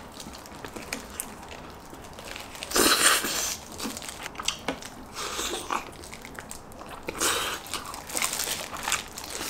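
A person biting and chewing sauced fried chicken: crisp crunches of the coated skin among wetter chewing. The loudest burst of crunching comes about three seconds in, with more around five and seven seconds.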